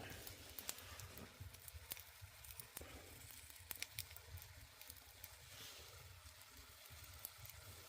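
Faint crackling of a wood fire in a traditional agungi firebox: scattered small pops and snaps at irregular intervals over a low steady rumble.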